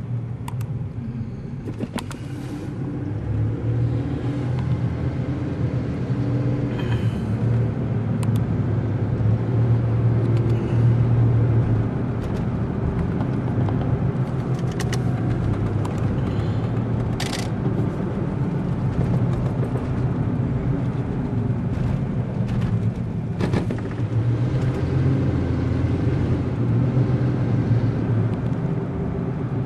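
Steady low rumble of a motor vehicle on the move, with a few short clicks now and then.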